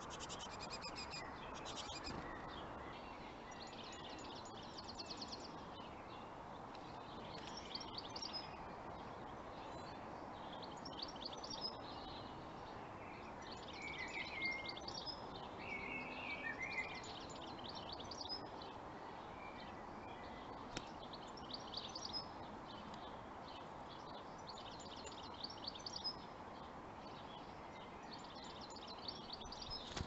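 Small birds chirping: short bursts of high-pitched calls every second or two, over a steady background hiss.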